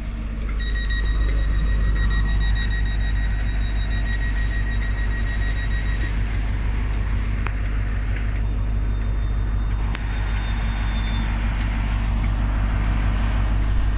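Class 43 HST power car's diesel engine idling with a steady low rumble. Over it a steady high electronic warning tone sounds for about five seconds, then a fainter high tone briefly about two seconds later.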